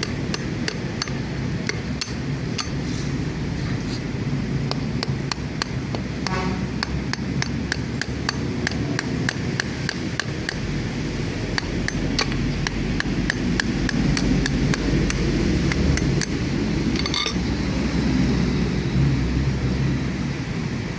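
Repeated light hammer strikes on metal, about two or three a second, over a steady low background hum.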